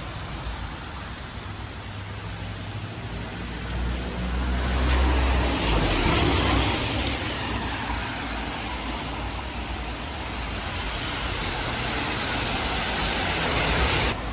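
Road traffic: a car passes, loudest about five to seven seconds in, with its engine rumble and tyre noise, then another vehicle approaches and the sound cuts off suddenly just before the end.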